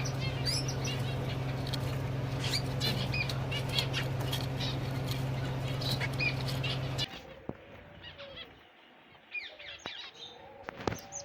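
Many small cage birds chirping and twittering densely over a steady low hum. About seven seconds in the sound cuts to a quieter stretch with only scattered chirps.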